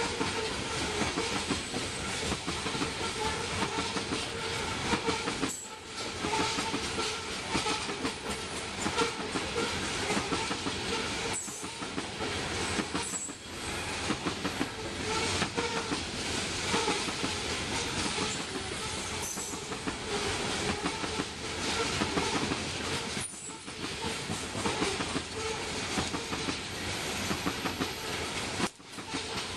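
Steel wheels of a coal train's loaded hopper cars running steadily over the rails as the cars roll past, with a few brief dips in the noise.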